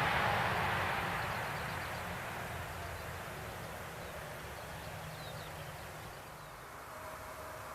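Boeing 737-800's CFM56 jet engines fading away after the aircraft has passed: a broad rushing noise that dies down steadily to a faint background hush.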